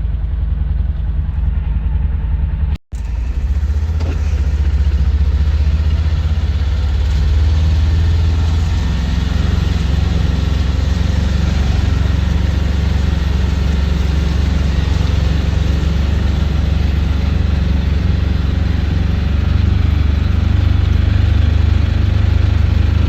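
Tractor engine running steadily while driving, heard from inside the cab as a loud, deep drone. The sound drops out for an instant about three seconds in.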